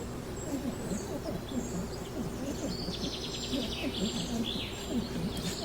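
Wild animals calling: many short low calls overlapping, several a second, with high bird chirps above them and a short buzzy trill about three seconds in.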